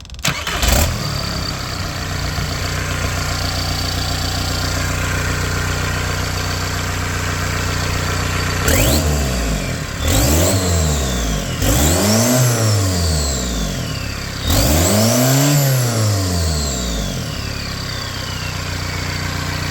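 VW 1.9 TDI (ALH) four-cylinder turbodiesel starting at once and settling into a steady idle, then revved up and let fall back to idle three times, with a high whistle falling away after each rev. It runs smoothly and picks up cleanly: a healthy used engine.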